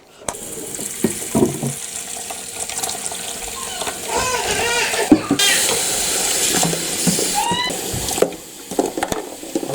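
Kitchen sink tap running, water splashing into the sink, heaviest for a few seconds in the middle.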